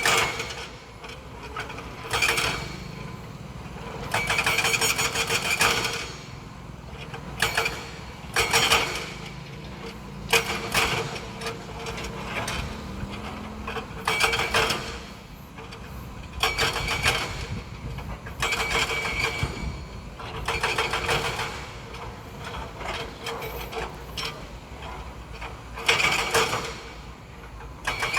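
Heavy earthmoving machinery at work: a steady low engine rumble with irregular bursts of metallic clanking and squealing every couple of seconds.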